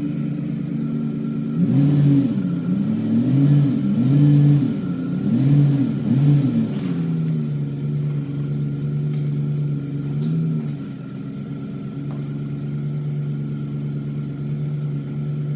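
Chevy truck engine idling, revved up and down four times in quick succession, then settling back to a steady idle.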